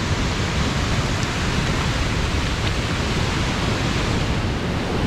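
Water of Bomburu Ella waterfall rushing over the lip of the falls, a steady unbroken noise of falling water.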